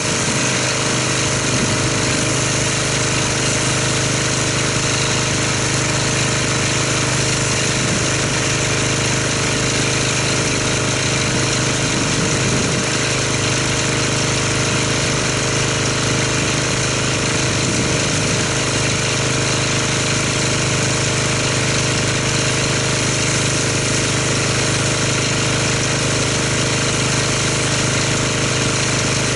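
Pressure washer running steadily, its pump drone under the hiss of the water spray, rinsing dried car-wash soap off a car. It starts abruptly and holds at one even level.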